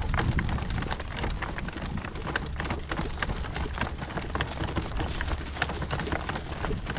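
Dense, irregular crackling and rattling as a horse in harness pulls its rig over dry, dusty field ground, with a low rumble underneath.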